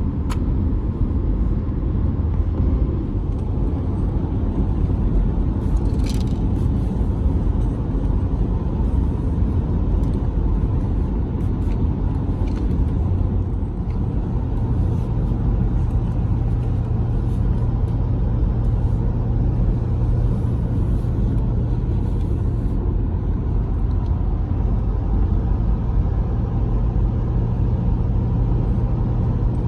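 Steady low rumble like a car's running noise, with a steady low hum joining about halfway through.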